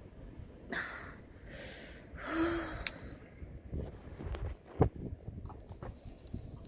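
A person's breaths: three short hissy exhales, one with a brief voiced sigh, followed by a few sharp clicks.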